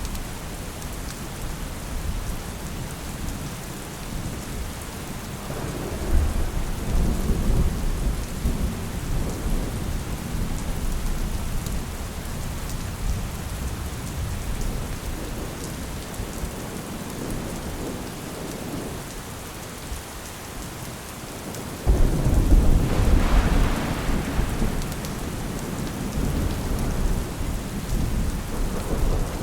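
Steady rain with rolling thunder: a low rumble swells about six seconds in, and a louder peal starts sharply about 22 seconds in and fades over several seconds.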